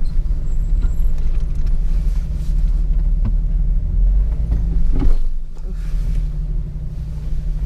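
Jeep engine running at low speed while crawling over rocks, with a single jolt about five seconds in as it goes over a bump.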